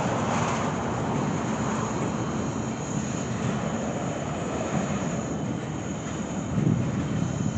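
A freight train's empty center beam flatcars rolling past, with a steady rumble of wheels on rail that swells near the end.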